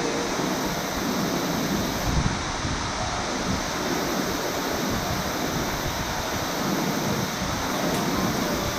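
Steady rushing of water falling at a waterfall.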